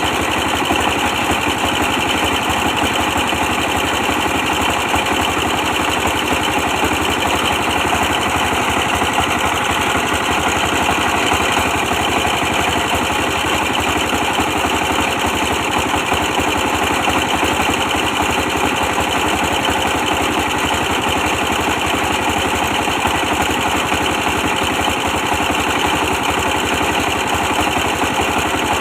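Old 24 hp diesel engine running steadily under way, powering a brick press machine.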